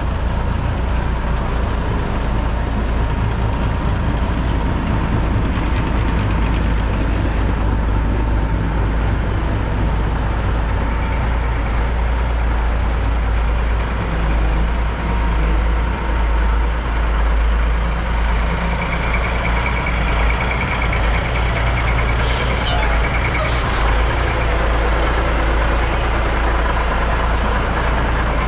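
An old Dodge truck's engine running steadily at low speed as the truck moves off slowly. Two short hisses come about three-quarters of the way through.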